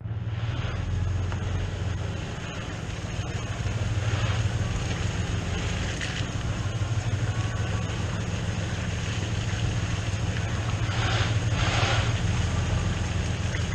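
Engine of the vehicle towing a hay trailer, running steadily under load. There are two brief noises about eleven and twelve seconds in.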